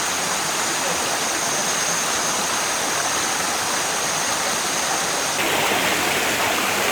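Steady rush of flowing water in a forest stream, with a thin high steady whine over it. About five seconds in, the whine stops and the water becomes brighter and hissier.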